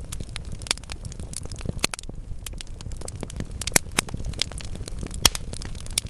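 Wood fire burning in a fireplace: a steady low rumble of flames with irregular crackles and snaps from the logs, the two loudest pops coming about four and five seconds in.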